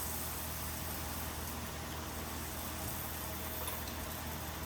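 Steady sizzling hiss of meat cooking on a tabletop cast-iron griddle, with a low hum underneath.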